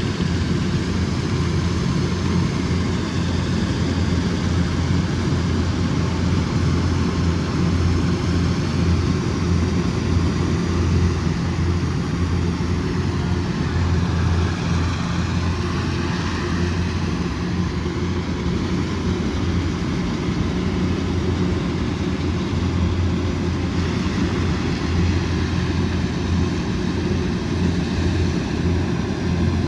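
Combine harvester's diesel engine running steadily, a constant low drone with no change in speed.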